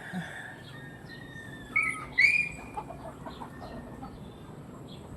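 Backyard chickens calling: two loud short calls a little under two seconds in, and soft chirps and clucks around them.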